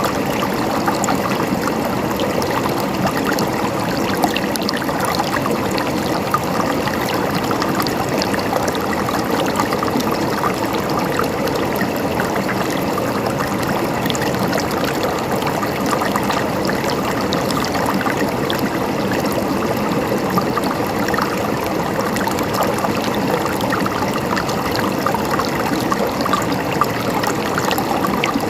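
River water flowing and babbling over stones, a steady rush dotted with small splashes and trickles.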